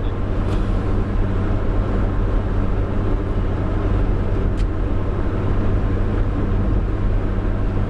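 Steady low engine and road drone inside a truck's cab while cruising on a freeway, with two faint ticks.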